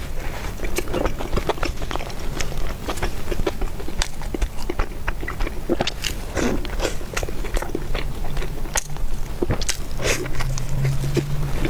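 A person chewing and biting food close to the microphone, in many small, irregular wet clicks and smacks: mouth sounds of eating noodles and meatballs.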